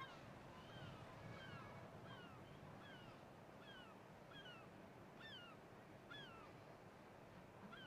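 Faint bird chirping: a short, falling chirp repeated about once a second, over a low background hum.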